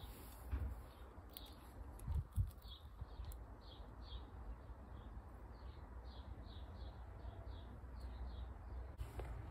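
A small bird chirping, a run of short high notes at about two to three a second, over a steady low rumble. Two dull thumps about two seconds in.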